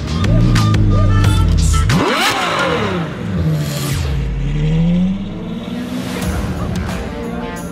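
Ferrari 812 Superfast's V12 revving hard as the car pulls away. About two seconds in the pitch sweeps sharply up and falls back, then it climbs again through the gears before easing off.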